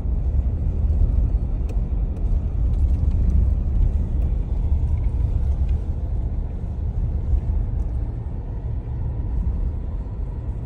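Steady low rumble of a car driving, heard from inside the cabin: road and engine noise with a few faint clicks.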